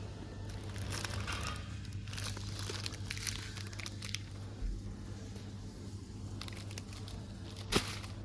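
Irregular crinkling and rustling, like packaging being handled, over a steady low hum, with one sharp click near the end.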